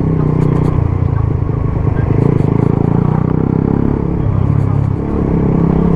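Suzuki GSX-S 125's single-cylinder engine with a Mivv GP Pro exhaust, running steadily while riding, with a brief dip in revs about five seconds in.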